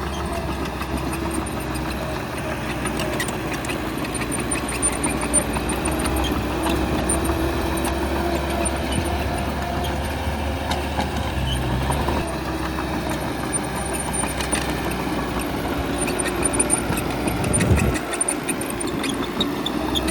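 Bulldozer's diesel engine running steadily, with scattered metallic clanks.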